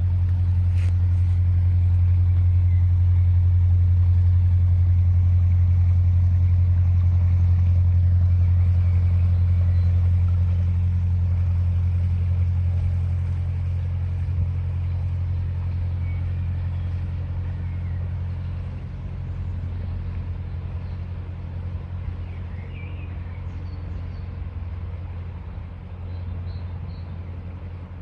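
A steady low engine drone with a few even overtones, loud at first and slowly fading over the second half.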